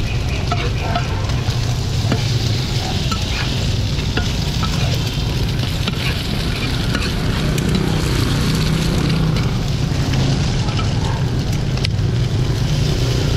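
Bột chiên, cubes of rice-flour cake with egg, sizzling in bubbling oil on a large black frying pan, with a metal spatula scraping and tapping the pan now and then. A steady low rumble runs underneath.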